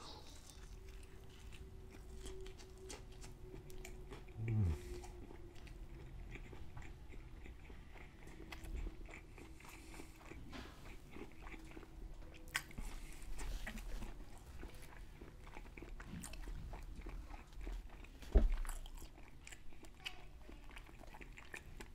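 A person biting into and chewing a crispy hand-breaded fried chicken sandwich close to the microphone, with faint crunches and wet mouth sounds. A short low hum of the voice about four seconds in, and a single thump near the end.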